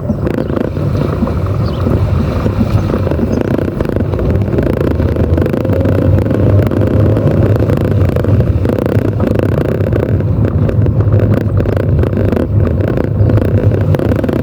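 Car driving, heard from inside the cabin: a steady engine and road rumble.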